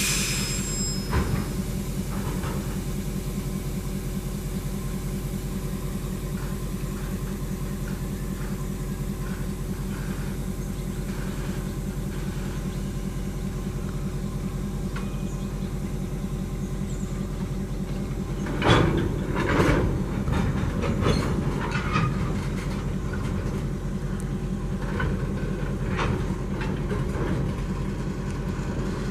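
Container train moving slowly while shunting, with a steady low rumble. About two-thirds of the way through comes a run of loud metallic clanks and bangs lasting a few seconds, with a few lighter clanks after.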